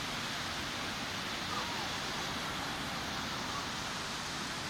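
Sea surf washing steadily onto a beach, a constant rushing hiss of breaking waves.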